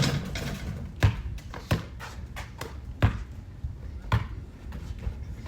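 A basketball bouncing on a hard floor: four sharp bounces at uneven intervals, about a second or so apart.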